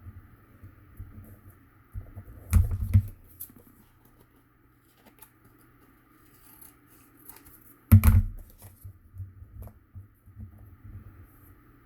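Paper crafting at a table: scissors and cardstock being handled and cut, with small clicks and rustles. Two bumps come about two and a half and three seconds in, and a louder knock comes about eight seconds in.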